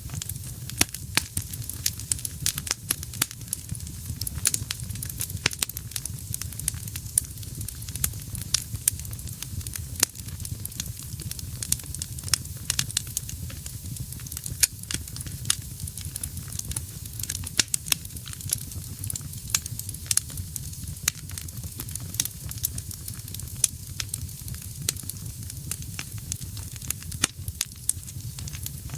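Wood fire burning in a fireplace: dense, irregular crackles and pops of burning logs over a low, steady rumble of flame.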